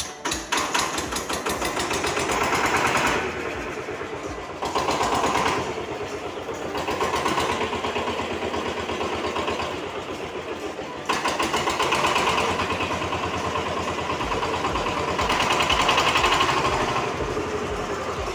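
A vehicle's engine running steadily as it is driven, the sound swelling and easing every few seconds.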